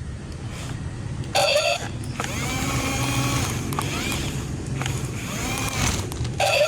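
A motor running steadily with a low rumble, with short higher-pitched tones and wavering whines over it from about two seconds in.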